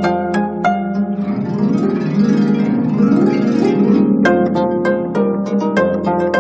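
25-string gayageum (Korean zither) playing solo: plucked notes ring over sustained low notes, then about a second in a rush of fast sweeping runs across the strings, returning to single plucked notes about four seconds in.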